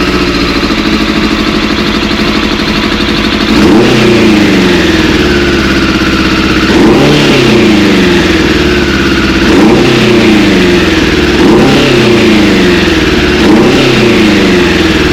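Suzuki Bandit 600's inline-four engine running just after starting, steady at first. From about four seconds in it is blipped about five times, roughly two seconds apart, each rev rising and falling back. It still sounds a bit misfire-y on freshly rebuilt carburettors.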